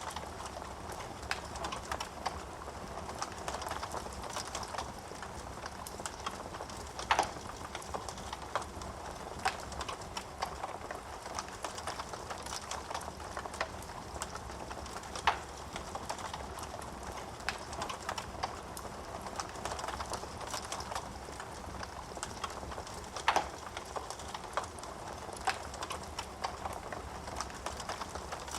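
Wood fire burning in a fireplace: a steady hiss of flames with irregular crackling and a few louder pops of burning wood, the loudest about 7, 15 and 23 seconds in.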